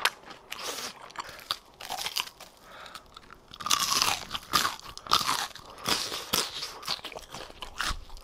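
Crisp crunching and chewing of freshly fried, starch-battered pork (tangsuyuk) being eaten, in irregular crackly bites that grow denser and louder about halfway through.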